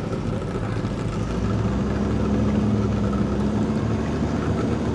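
Boat engines idling with a steady low hum; a stronger engine tone comes in about a second and a half in and holds steady.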